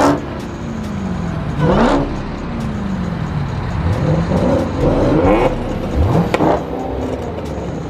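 Car engines revving in a series of short rising blips over the steady drone of running engines, with a sharp click about six seconds in.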